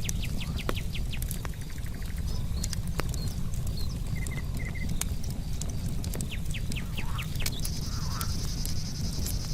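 Campfire crackling with scattered sharp pops over a steady low rumble, while insects chirp in short runs. About three quarters of the way through, a steady high-pitched insect trill starts up and carries on.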